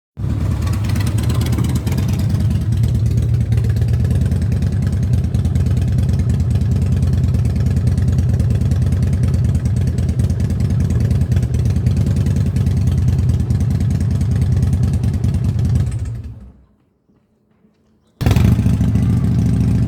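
Motorcycle engine running steadily with a loud, low rumble. The sound falls away about sixteen seconds in and, after a couple of seconds of near silence, comes back abruptly at the same level.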